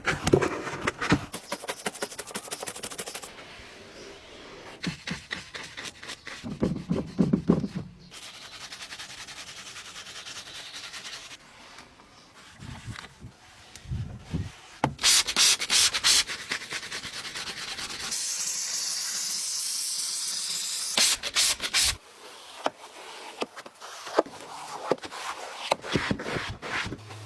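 Brush or pad scrubbing a car during cleaning: rough, repeated rubbing strokes in several separate spells. A steady hiss runs for about three seconds past the middle.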